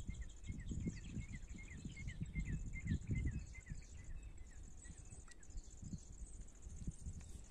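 Outdoor ambience: a bird repeats short chirps, about three a second, for the first four seconds or so, over a steady high-pitched insect buzz and low, irregular rumbling.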